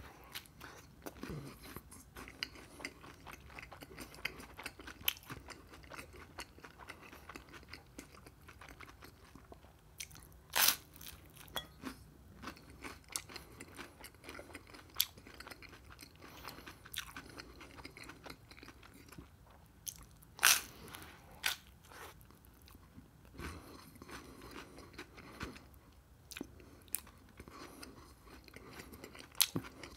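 Close-up chewing and crunching of an open-faced sandwich of dark seeded bread topped with a white spread and cucumber slices. A steady patter of small crunches runs through it, with louder sharp bites about ten seconds in, twice around twenty seconds, and just before the end.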